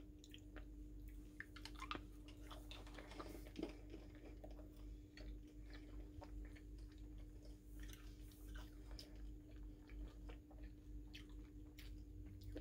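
Faint chewing of a SweeTarts Chewy Fusions candy, a chewy-and-crunchy sweet, with many small scattered crunches and clicks.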